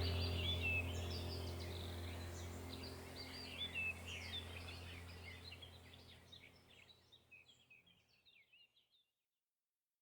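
Birdsong: many small birds chirping and twittering over a low steady hum. The whole mix fades out to silence about two-thirds of the way through.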